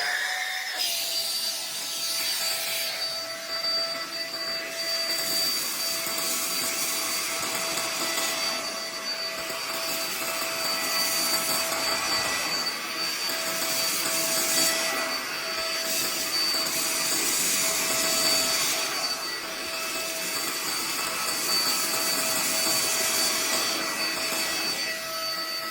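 Cordless vacuum cleaner running: a steady high motor whine over rushing airflow, the hiss swelling and easing every few seconds.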